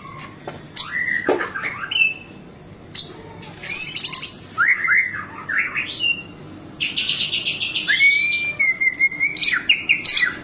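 White-rumped shama (murai batu) singing a varied song full of mimicked phrases: clear gliding whistles and short sharp notes, with a fast buzzy rattle about two-thirds of the way through followed by a drawn-out wavering whistle.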